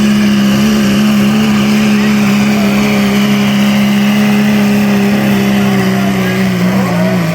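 A pulling truck's engine running at steady high revs under full load as it drags the weight sled down the track, its pitch wavering and dipping slightly near the end.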